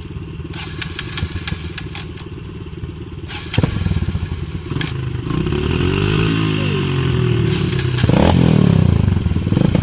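Dirt bike engine running with some clatter, then revved up about three and a half seconds in, its pitch rising and falling and louder again near the end.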